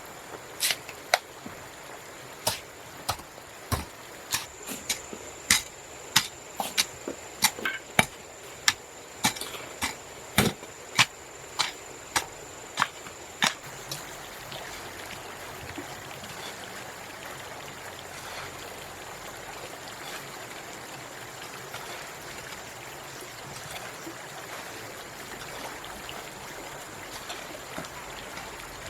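A quick run of sharp strikes, roughly two a second, that stops about halfway through. A steady rushing noise like running water continues behind and after them.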